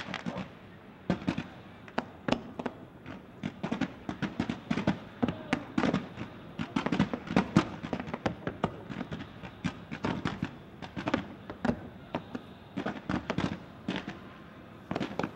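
Fireworks display: a rapid, irregular series of shell bursts and bangs, thickest through the middle and thinning out near the end.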